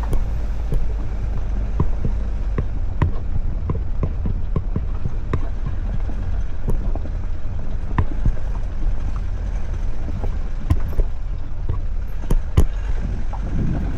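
A vehicle driving over a rough, bumpy road: a steady low rumble with frequent irregular knocks and rattles.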